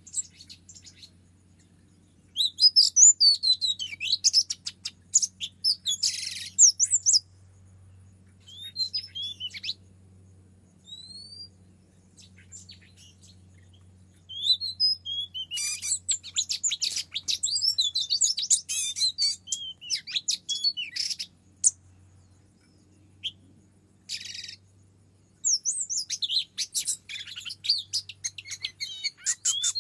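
Oriental magpie-robin song: bouts of rapid chirps, trills and whistles with short pauses between them, over a faint steady low hum.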